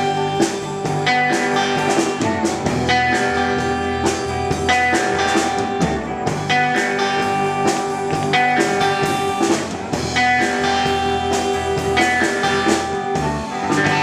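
Live rock band playing an instrumental passage without vocals: electric and acoustic guitars over a steady drum kit beat.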